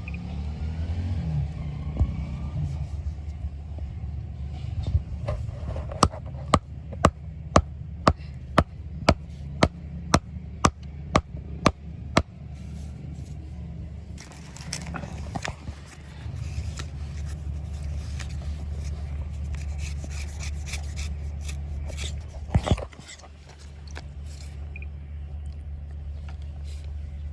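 Workshop sounds over a steady low machine hum: about six seconds in come around a dozen sharp knocks, about two a second, then a longer stretch of rapid clicking and scraping.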